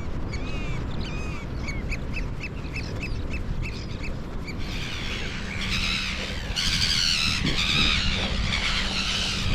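Shorebirds calling: first a run of short, high piping calls, about two or three a second, then from about halfway a dense flock of harsh, overlapping calls that grows louder.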